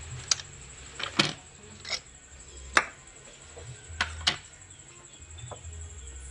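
Scattered sharp clicks and knocks, about eight in six seconds, of hand tools and parts being handled during spark plug work on a BMW E36 six-cylinder engine.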